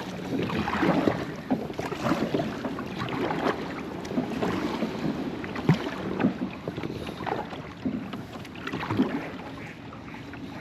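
Water splashing and sloshing around a kayak, with scattered short knocks and wind buffeting the microphone.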